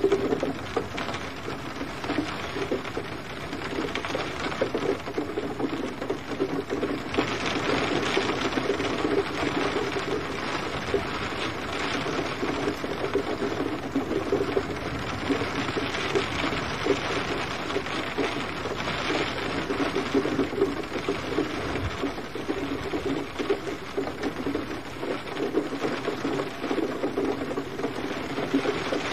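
Steady, gentle rain falling.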